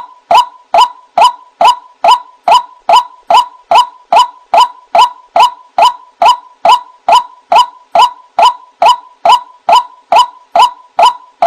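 White-breasted waterhen (ruak-ruak) calls played as a trapping lure: one short note repeated at an even pace, about two a second.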